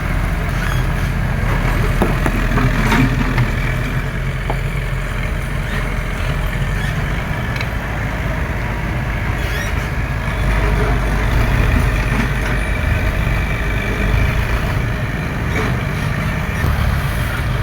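Hydraulic excavator's diesel engine running steadily, with a few light knocks.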